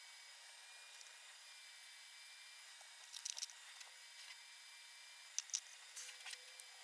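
Faint steady hiss with a few brief, soft scratchy rustles about three seconds in and again around five and a half and six seconds: small handling noises as sand and crushed garnet grit are sprinkled and worked onto wet matte medium.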